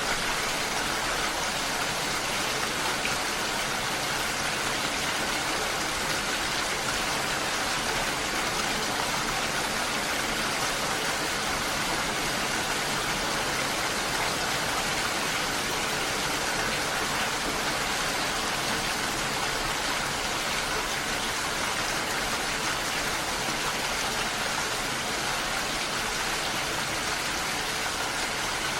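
Steady, even rushing of water, with no single drops, splashes or other events standing out.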